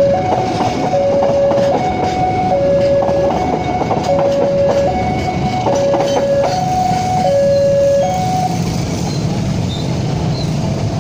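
Passenger train coaches rolling past, their wheels clicking and clattering over the rail joints and turnout. Over this, a loud two-note electronic signal alternates steadily between a lower and a higher tone, each note lasting under a second, and stops shortly before the end.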